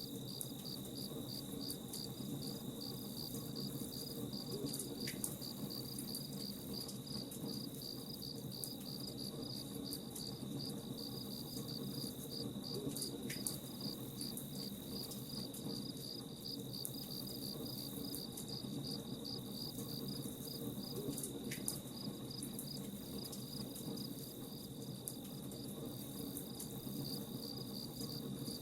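Crickets chirping in a steady, even pulsing rhythm over a continuous high trill, with a campfire crackling softly underneath in scattered small pops.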